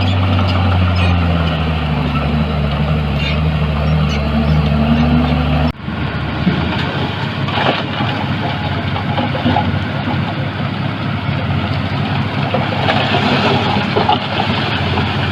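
Heavy diesel machinery engine running steadily; about six seconds in the sound cuts to a rougher, noisier stretch of engine with scattered knocks.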